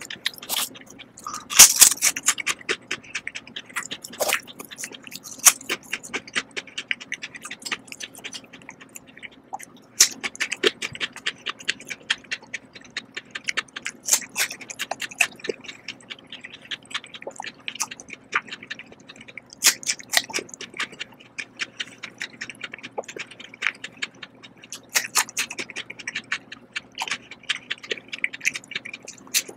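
Close-miked chewing and biting of crisp Korean melon: many irregular sharp crunches and wet mouth clicks, the loudest about two seconds in, over a faint steady hum.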